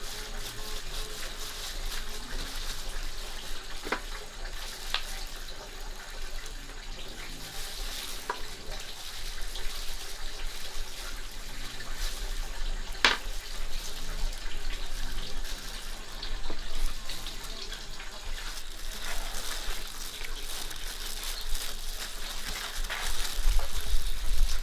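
Water running and splashing steadily, as from a tap into a sink or basin, with a few sharp clicks; the loudest click comes about halfway through.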